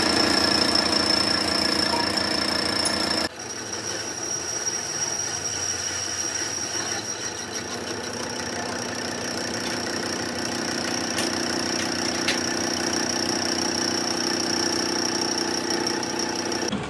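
A machine running steadily with a high, even whine over a lower hum; it breaks off sharply about three seconds in and picks up again at once, slightly quieter.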